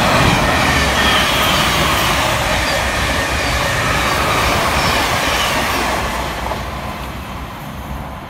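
Thameslink Class 700 (Siemens Desiro City) electric multiple unit passing fast through the station: a loud rushing rumble of wheels on rail with faint falling whine tones, fading away from about six seconds in as the train clears.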